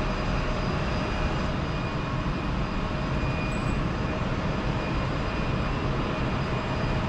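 Jet airliner engines running, a steady even rush with faint high tones held throughout.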